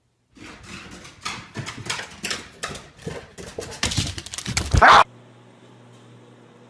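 An animal making a run of short, irregular noisy sounds for about five seconds, with a louder one near the end, then a cut to a faint steady hum.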